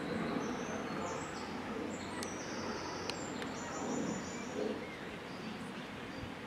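Garden ambience: high, thin bird song over a steady background hiss, the bird falling silent about five seconds in.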